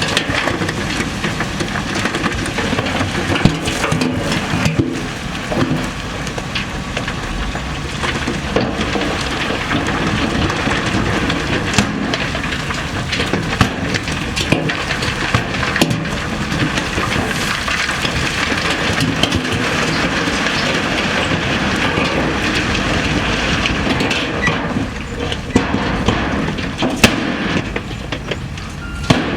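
Heavy earthmoving machinery working rock and dirt: a continuous crunching and grinding of rock, with sharp cracks and knocks scattered throughout, over a machine running under load.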